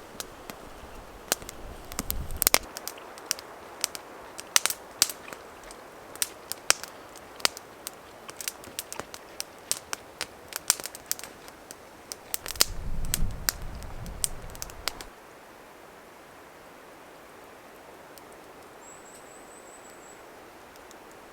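Wood fire crackling with irregular sharp pops, with two brief low rumbles among them. The crackling stops about 15 seconds in, leaving a steady soft hiss and one short high chirp near the end.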